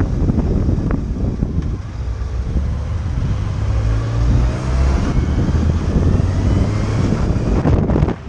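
Motorcycle engine running under heavy wind noise on the microphone, its note climbing between about three and five seconds in as the bike accelerates. The level dips briefly near the end.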